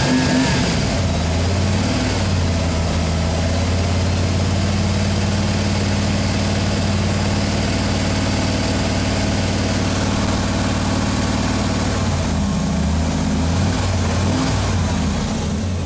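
Old plow truck's engine running steadily, held up in speed to charge a dead battery through jumper cables before the other vehicle is cranked.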